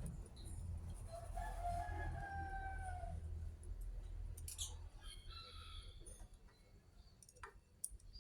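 A rooster crowing: one long, slightly falling call about a second in that lasts about two seconds, then a shorter, higher call a little later. A steady low hum runs underneath.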